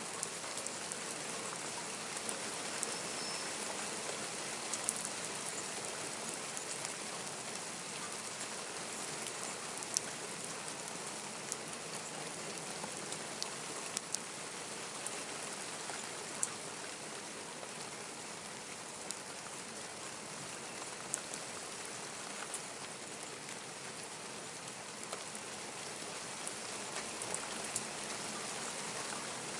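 Steady rain falling, an even hiss with frequent sharp ticks of individual drops striking close by.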